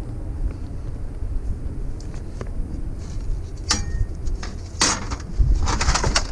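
Hard metal objects clanking and clinking as scrap is handled and loaded. There are two sharp strikes about four and five seconds in, then a short run of clatter, over a steady low rumble.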